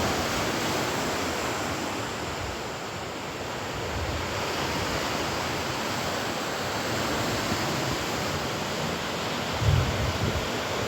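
Baltic Sea surf washing steadily onto the shore, with wind buffeting the microphone in low gusts, strongest near the end.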